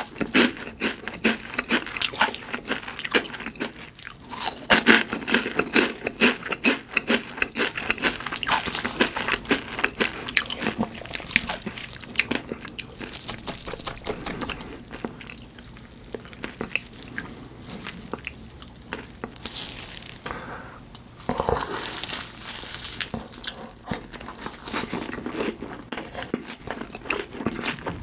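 Close-miked chewing of crisp fried food: rapid crunchy bites and chews, densest over the first dozen seconds, thinner for a while, then a louder burst of crunching a little past the middle.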